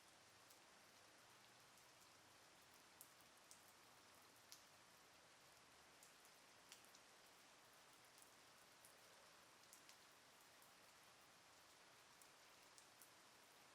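Faint, steady light rain: a soft even hiss with scattered single drops ticking sharply on a surface at irregular moments.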